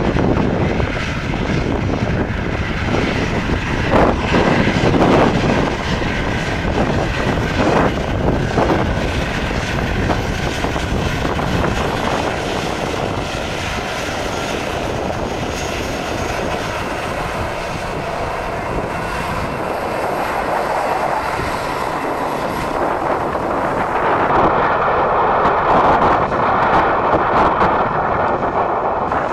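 Airliner engines running: a loud, steady rush with a deep rumble that fades about halfway through, then swells again near the end with a steady whine.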